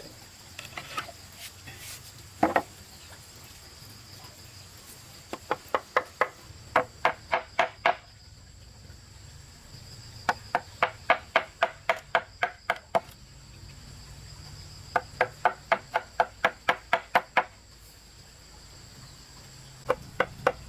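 Runs of quick, evenly spaced blows from a hand tool striking wood, about five a second, in three bursts of a few seconds each with pauses between, and another starting near the end. A steady high insect buzz runs underneath.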